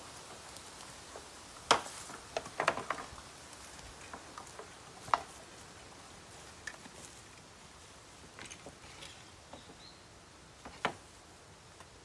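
Bamboo burning in an open fire, crackling with sharp irregular pops over a faint steady hiss, the loudest cluster about two seconds in and single pops near five and eleven seconds.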